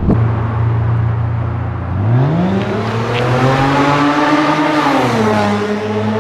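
Straight-piped Honda V6 with custom stainless headers and no muffler, pulling under a bridge. It holds a low steady note for about two seconds, then the revs climb hard and drop back about five seconds in.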